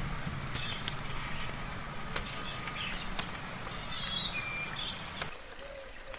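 Scattered bird chirps and short whistled notes over soft rain, with rain-drop ticks throughout. A low rumble sits underneath and stops abruptly about five seconds in.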